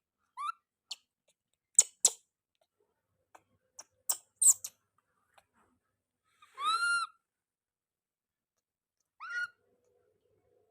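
Baby monkey giving three short high-pitched calls: one near the start, a longer arched call a little past halfway and one near the end. Sharp clicks and taps fall between the calls, the loudest around two and four seconds in.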